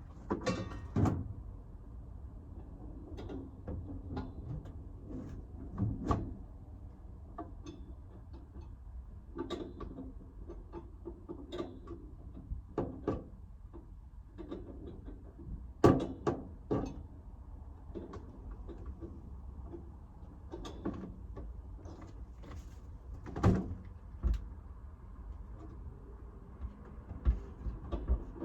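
Scattered knocks and clunks, about a dozen at uneven intervals, the loudest about a second in, at about sixteen seconds and near twenty-four seconds, over a low steady rumble.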